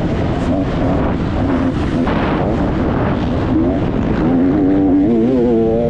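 Motocross dirt bike engine being ridden hard, revving up and dropping back repeatedly as the rider works the throttle and gears.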